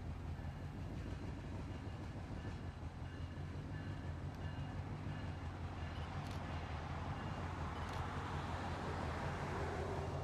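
Diesel locomotive, an SD-M rebuilt from an EMD SD9, running with a steady low engine rumble. A broad rolling noise grows louder over the last few seconds as the train moves.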